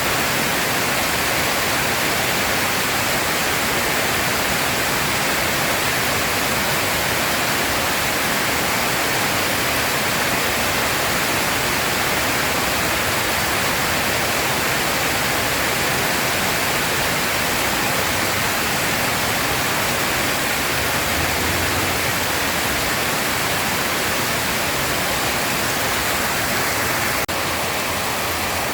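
Steady, dense rain hiss. The level dips slightly just before the end.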